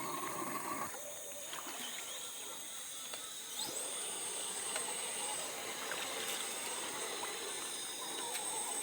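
Shallow stream water trickling and splashing, a steady hiss, with a thin high whine that comes in a few seconds in and holds with a short break.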